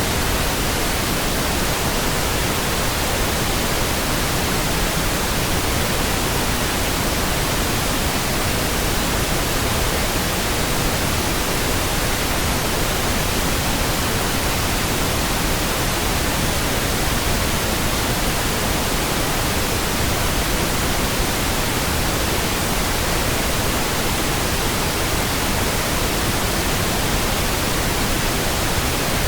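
Steady pink noise: an even, unchanging hiss spread across all pitches, with no music, voices or sudden sounds.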